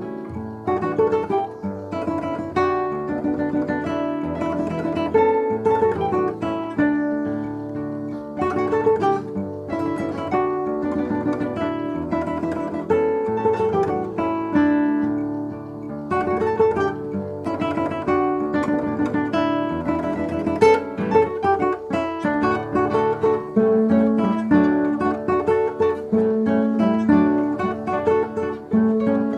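Instrumental music on plucked acoustic guitar, strummed and picked in a lively rhythm.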